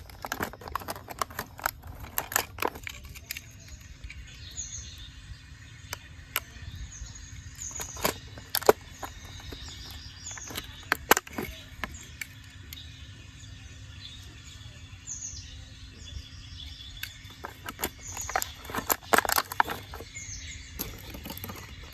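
Irregular sharp clicks and knocks, clustered in bursts, with short high chirps of small birds every few seconds and a faint steady hum underneath.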